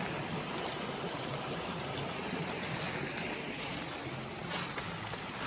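Small stream running high after rain: a steady rush of flowing water.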